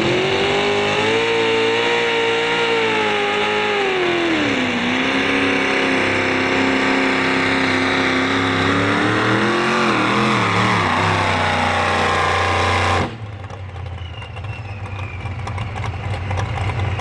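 Light modified pulling tractor running flat out under load down the track, its engine pitch dropping and recovering twice as the sled bogs it down. About thirteen seconds in the engine cuts off suddenly at the end of the pull, leaving a quieter, lower engine running.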